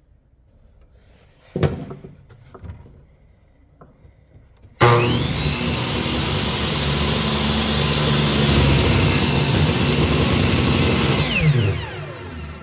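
An electric woodworking power tool switches on about five seconds in, runs steadily for about six seconds, then is switched off and winds down with a falling whine. Earlier there is a single knock and some light handling of wood.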